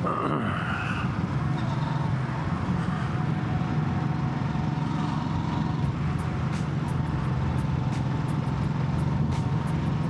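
Motorcycle engine running at a steady cruising speed, a constant low hum under road and wind noise, with a few faint ticks in the second half.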